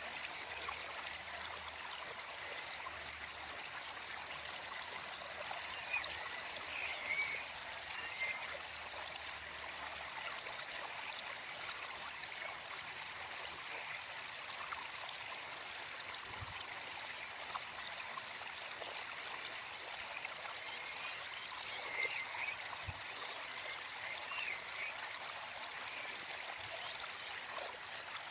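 Small forest stream flowing steadily over rocks, an even rushing and trickling of water, with a few brief louder moments about six to eight seconds in and again around twenty-two seconds.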